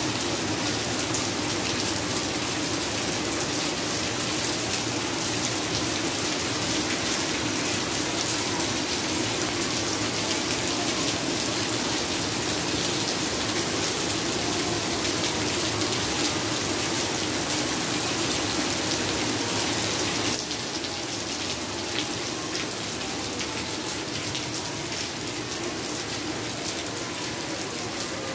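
Heavy rain pouring steadily onto a wet tiled floor and puddles, an even hiss of splashing water. About twenty seconds in it drops abruptly to a slightly quieter, duller hiss.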